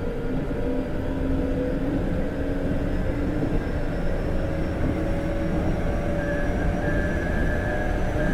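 Interior running sound of a Keikyu 1500-series electric train (1700 subseries) with Toyo GTO-thyristor VVVF traction control: the inverter and traction motor whine rises slowly in pitch as the train picks up speed, over a steady rumble of wheels on rail. The air conditioning is running.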